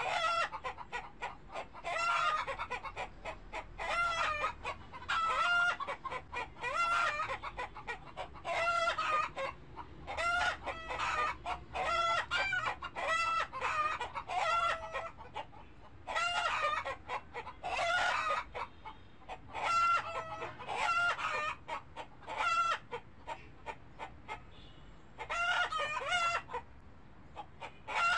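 Animal calls, plausibly fowl: clusters of rapid short, pitched notes repeating every second or two, with a brief lull near the end.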